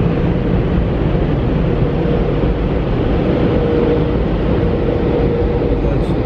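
Car wash air blowers running: a steady, loud rush of air with a constant whine.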